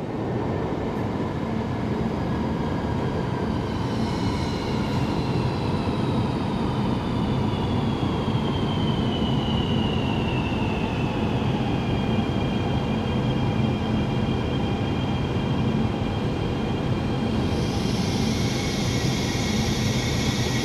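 A high-speed train moving along an underground platform: a steady rumble, with a whine that slowly falls in pitch over several seconds, and a hiss that comes in near the end.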